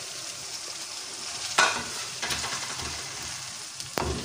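Chopped tomatoes and onions sizzling in hot oil in a wok while a spatula stirs them, with a steady hiss. The spatula knocks sharply against the pan about one and a half seconds in and again near the end.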